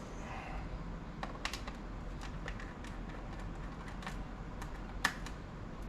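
Scattered light plastic clicks and taps from working on a laptop's case and its small screws, about a dozen spread unevenly, with one louder click about five seconds in.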